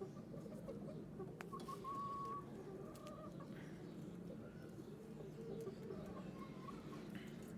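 Pet birds calling: a drawn-out thin call about a second and a half in, and another near the end, over a low steady hum.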